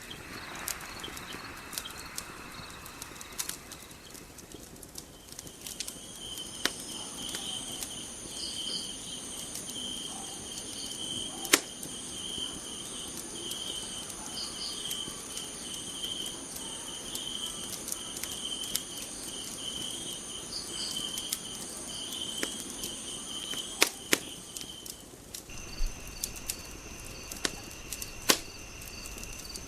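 Night ambience of crickets chirping steadily, their pattern changing about five seconds in and again near the end, with sharp crackling pops from a wood fire scattered throughout.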